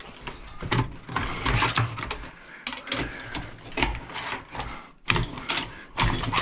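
Metal pry bar working at a scrap part, an irregular run of clicks, scrapes and knocks as the piece is forced apart, with louder knocks near the end.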